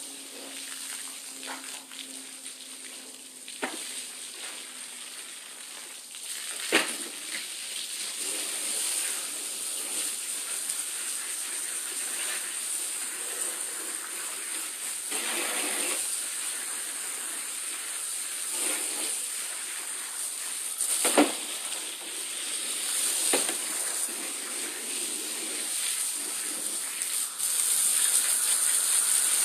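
Hose spraying water onto a rubber anti-fatigue floor mat, a steady hiss that gets louder near the end, with a few sharp knocks, the loudest about 21 seconds in.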